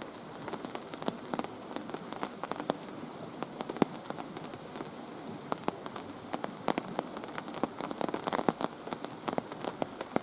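Heavy rain falling, with many separate drops striking close by at irregular intervals over the steady rush of the rain and a river.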